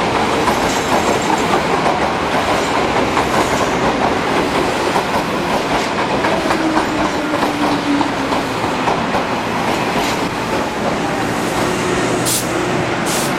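Hankyu electric train running through a station, its wheels clattering over the rail joints in a steady loud rush, with a few short high hisses near the end.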